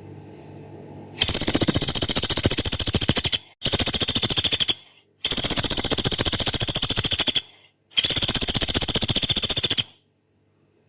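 Pelatuk beras, a small woodpecker, giving four long, rapid, harsh rattling trills separated by short pauses, the 'long rough shooting' call used as masteran material.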